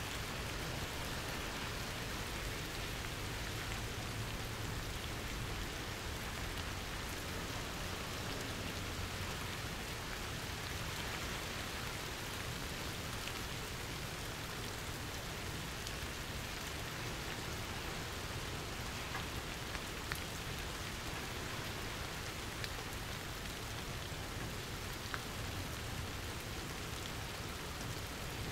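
Steady rain falling, an even hiss with a few sharper drop ticks about two-thirds of the way through and again near the end.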